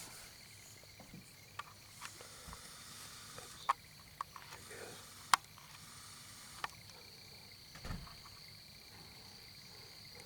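Faint, steady, high-pitched insect trill in the background, with scattered light clicks and rustles close by.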